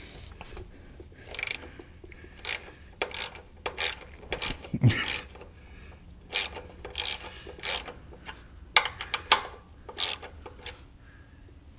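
Ratchet wrench with a 17 mm socket clicking in separate sharp strokes, loosening an oil drain plug for an oil change.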